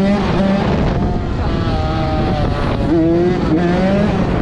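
Dirt bike engine running while the bike is ridden, its pitch rising and falling several times as the throttle is worked.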